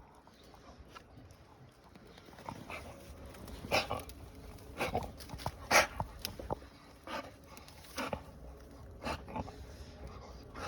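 Pit bull working at a tree with its mouth, making dog sounds and a run of irregular short, sharp sounds. The sharp sounds start after a quieter first two seconds and are loudest about four, six and nine seconds in.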